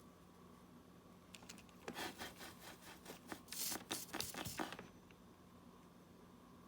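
Quick, irregular scratchy rubbing and scraping strokes, lasting about three seconds and starting about two seconds in, loudest near the end of the burst.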